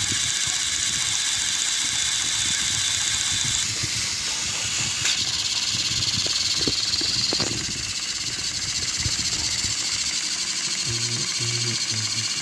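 Battery-powered Thomas & Friends toy train motors running, a steady whirring throughout, with a few short tones near the end.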